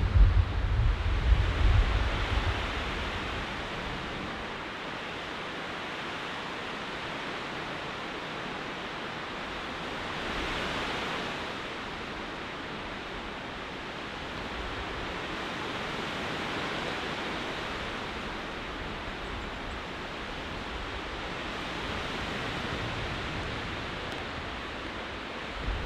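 Steady rushing storm noise of wind and rain, swelling a few times. A low rumble fades out over the first couple of seconds.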